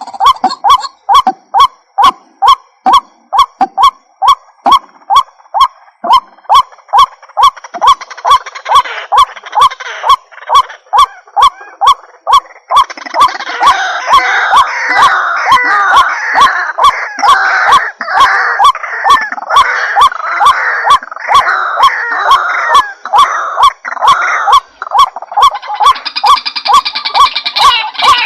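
White-breasted waterhen (ruak-ruak) calling: a steady run of repeated notes about two a second, joined about halfway through by a louder, denser bout of overlapping harsh calls that thins out near the end.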